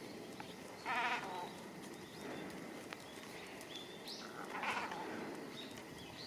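Great cormorants calling from a colony: two short calls with a wavering pitch, one about a second in and another near the middle, over a steady outdoor background. Brief high chirps from smaller birds come in between.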